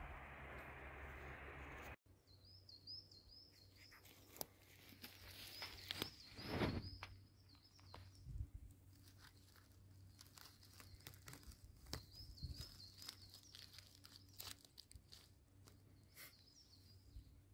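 Quiet woodland: a small bird sings short phrases of quick high repeated notes several times, over scattered crunching and rustling steps in dry leaves and twigs, with a louder rustle about six seconds in. A steady hiss fills the first two seconds and cuts off suddenly.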